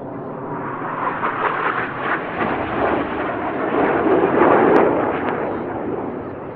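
BAE Hawk T1 jet trainers making a fast pass with their Adour turbofans: a loud rushing jet roar that swells to a peak about four and a half seconds in, then dies away.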